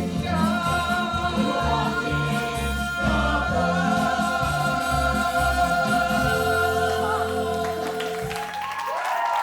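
Live musical-theatre ensemble singing the big finish of a show tune over a band, with long held notes. The music stops about a second before the end, and audience cheers and whoops break out.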